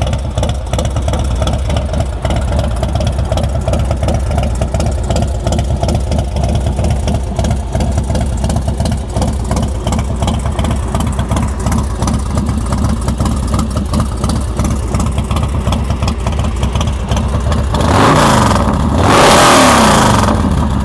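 2007 American Ironhorse Texas Chopper's 111 cubic inch S&S V-twin with S&S carburetor idling steadily through its 2-into-1 header. Near the end the throttle is blipped twice, two short revs that rise and fall back to idle.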